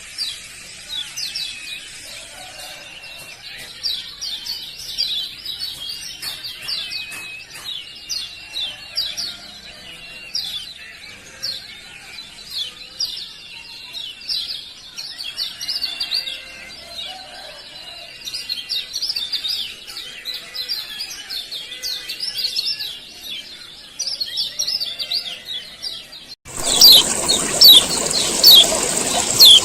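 Male kecial kuning, a white-eye, giving rapid, high 'ciak ciak' chirps, several a second. About 26 seconds in it cuts abruptly to a louder recording of sharp single chirps about once a second over a steady hiss.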